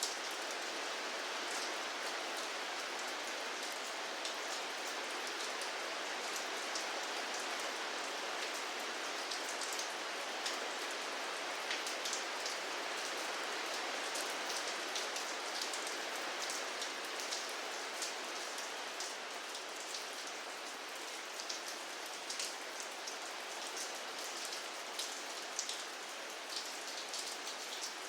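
Steady rain falling, an even hiss with many individual drops ticking sharply on a surface, the ticks more frequent in the second half.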